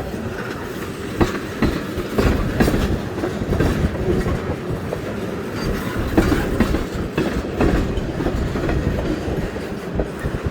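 Train rolling past at low speed: a steady rumble of railcars with irregular clacks and knocks from the wheels running over rail joints.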